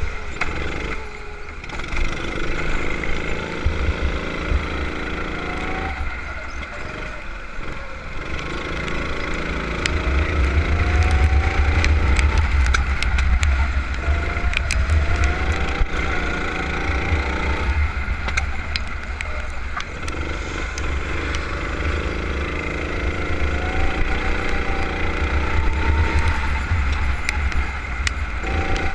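A go-kart engine at racing pace, its pitch climbing as it accelerates and dropping back for the corners again and again, over a heavy low rumble.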